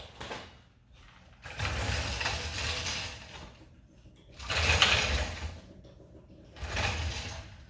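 Three bursts of mechanical rattling and clattering, the middle one the loudest, from metal shop equipment being worked on an engine.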